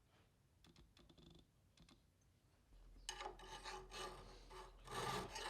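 Hand file scraping on a steel hand-plane sole, a few faint clicks first, then repeated back-and-forth strokes starting about three seconds in and getting louder, about two strokes a second.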